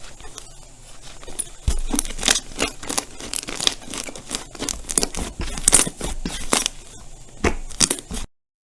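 Slime being squeezed and worked by hand, giving dense crackling and popping. It is faint at first, grows louder about two seconds in, and stops abruptly near the end.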